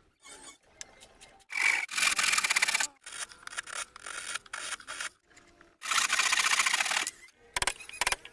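Wood being sanded: two loud rasping passes of about a second each, with softer scraping between them, then a quick run of sharp taps near the end.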